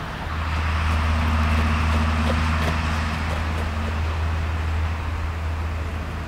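An engine running with a steady low hum and a broad rushing noise. It swells about half a second in and slowly eases off toward the end.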